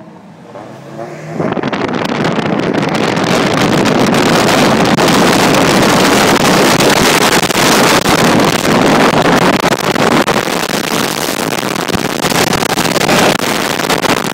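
A car driven hard at high speed: loud engine and rushing wind noise that surges in suddenly about a second in and then holds steady.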